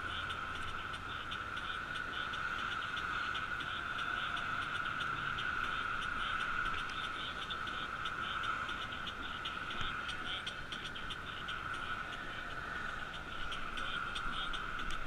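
A steady chorus of many calling animals: a constant high-pitched drone with rapid pulsing above it.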